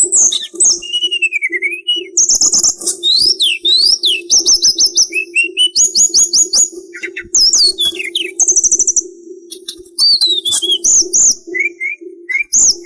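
A sulingan songbird singing a fast, varied song of high whistled notes, slurred rising and falling glides and rapid trills, broken by brief pauses. A steady low hum runs underneath.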